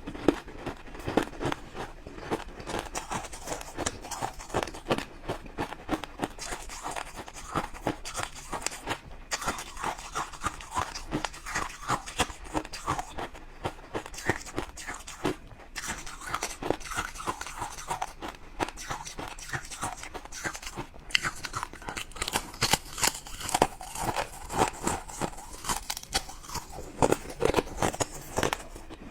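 Ice being bitten and chewed: continuous, irregular crunching and cracking, several crunches a second.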